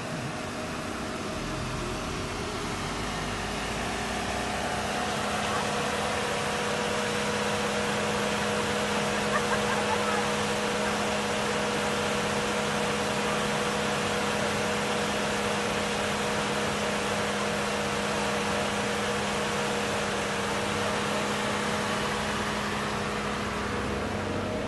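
Large SUV idling at the curb: a steady engine hum and hiss with an even drone that does not change.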